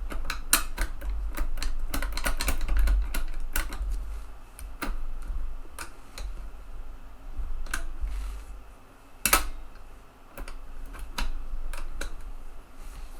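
Irregular clicks and clacks of small metal and plastic parts as the eject mechanism of a TEAC FD-235F floppy drive is worked by hand, with low handling bumps. The clicks come thick at first, then more sparsely. The mechanism is sticky and sloppy and doesn't snap back, which the repairer puts down to missing or old grease.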